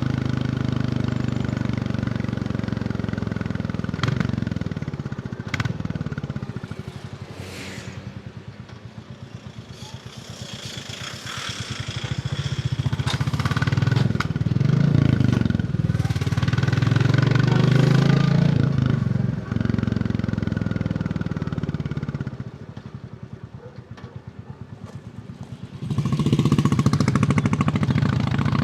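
Royal Enfield Bullet 350's single-cylinder engine running under way. The engine note falls off twice as the throttle is eased, and each time it pulls back up under acceleration. A couple of sharp clicks come early.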